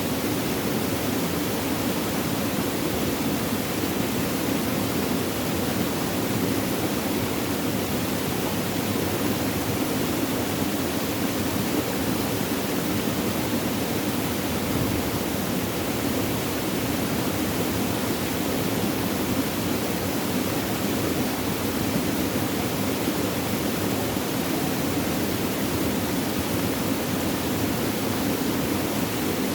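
Flowing water rushing steadily, an even sound that does not change.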